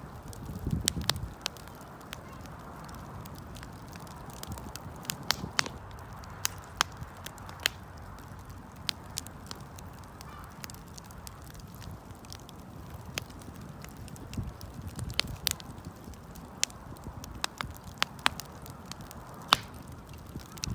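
Wood campfire crackling: sharp, irregular pops and snaps over a steady low hiss of burning, with a few short spells of low rumble.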